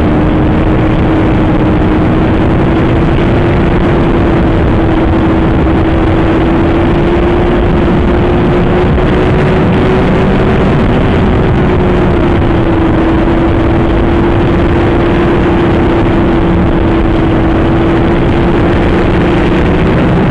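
Superbike engine held at a steady high-speed note, heard from inside the rider's helmet under heavy wind noise. The pitch climbs slightly about ten seconds in, then eases back down.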